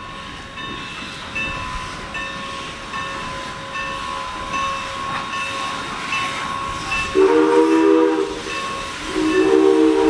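Steam locomotive drawing closer, a steady tone with a faint regular ring about twice a second, then its PRR three-chime steam whistle sounding a chord: a short blast about seven seconds in, then a longer blast from about nine seconds in.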